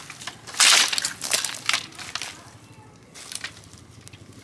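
Dry wood and brush crackling and crunching at a large open bonfire of cut trees and branches, in irregular bursts. The loudest burst comes about a second in, with smaller ones over the next couple of seconds.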